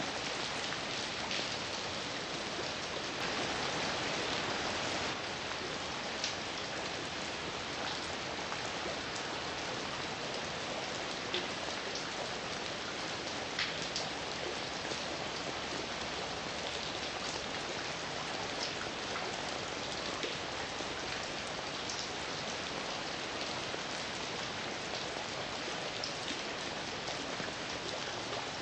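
Steady heavy rain falling, an even hiss with scattered louder single drops ticking on a surface.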